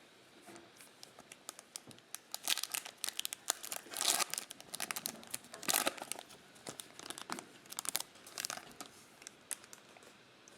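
Trading-card pack's foil wrapper crinkling and tearing open, with irregular crackly rustles as the pack is handled and the cards come out.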